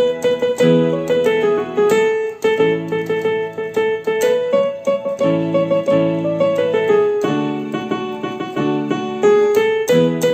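Electronic keyboard playing a single-note melody in A major over held chords in the lower register.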